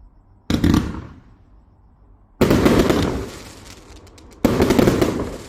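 A 168-shot assorted firework cake firing: three loud bursts about two seconds apart, each fading away over roughly a second, with a scatter of sharp crackles near the end.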